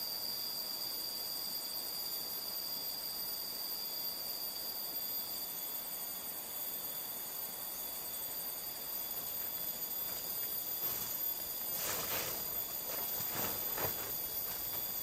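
Steady high-pitched insect chorus over an even hiss, with a few short knocks or rustles in the last few seconds.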